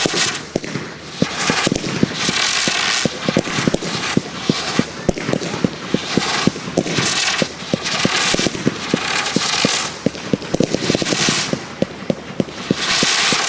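Professional fireworks display: many rapid, irregular bangs, with stretches of dense hissing crackle returning every second or two.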